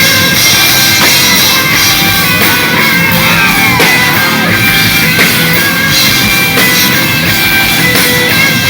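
Rock band playing live, an instrumental stretch with distorted electric guitars, bass guitar and a drum kit, steady and loud.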